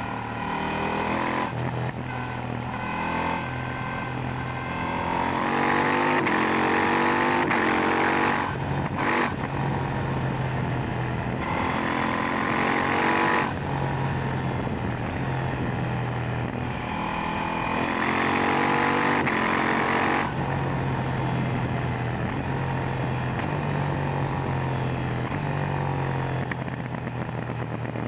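KTM 890 Duke R's parallel-twin engine on its stock silencer, ridden hard: the exhaust note rises through the revs, steps at each upshift, then drops back as the throttle closes, several times over.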